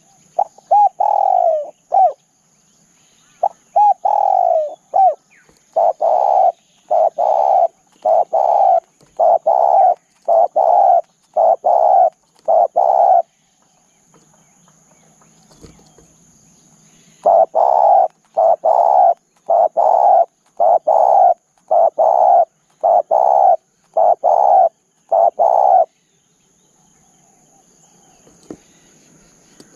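Spotted dove cooing in two long runs of repeated coos, a little over one a second, with a pause of about four seconds between them; the first run opens with a few longer, drawn-out coos.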